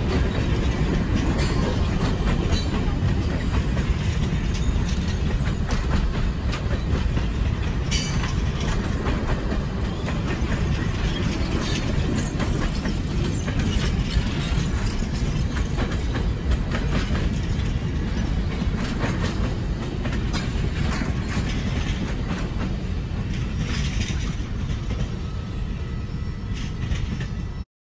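Train of passenger cars rolling past: a steady rumble of wheels on the rails with many rapid clicks over the rail joints. It eases a little as the last car goes by, then cuts off suddenly near the end.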